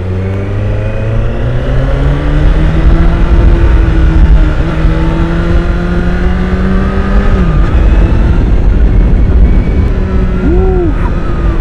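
Honda CBR1000RR SP inline-four engine on the stock exhaust, pulling hard under acceleration toward the top of the rev range. Its pitch climbs steadily for about seven seconds, drops off, and gives a short quick rise and fall near the end, with heavy wind rumble on the helmet-mounted microphone.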